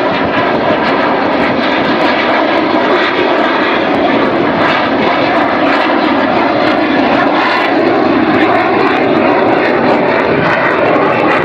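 Airplane engine noise from an aircraft in flight, loud and steady throughout.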